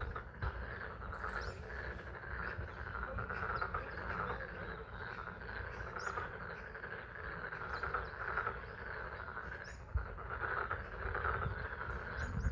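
A chorus of frogs calling at a pond, a steady pulsing band of calls over a low rumble, with spring rain falling.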